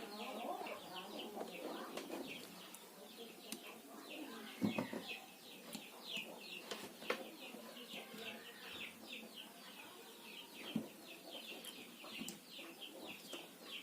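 Birds chirping in a fast, continuous run of short high calls, with a few light knocks scattered through.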